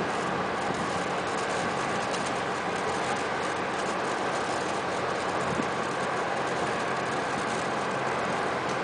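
Steady road and engine noise of a moving car, with no distinct events.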